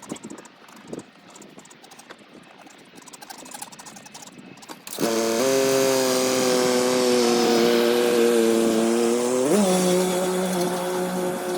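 Faint light patter, then about five seconds in an engine starts abruptly and runs at a steady pitch, which dips and settles lower a little before the end.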